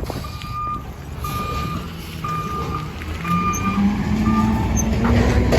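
Compost truck's reversing alarm beeping about once a second, five beeps, over the running engine. The engine revs up in steps from about three seconds in, as the beeping stops.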